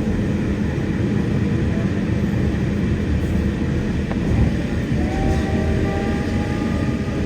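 Train running on the rails with a steady, dense rumble. A few steady high tones come in about five seconds in.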